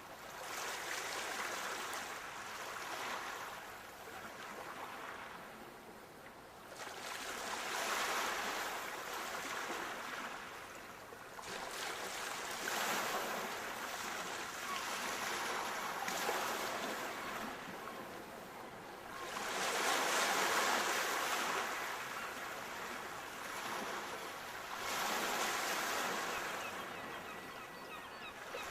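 Sea waves breaking and washing on a shore, one surge swelling and falling away every four to six seconds.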